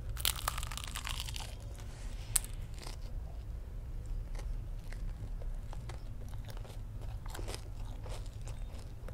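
Close-miked crunchy bite into a batter-coated fried sausage on a stick, a dense crackle lasting about a second at the start. Then chewing with small crunches and mouth clicks.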